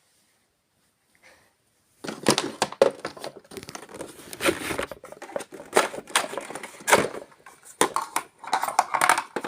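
Paper crinkling and crackling in quick irregular bursts, as when confetti or paper is handled and scattered by hand, starting about two seconds in after near silence.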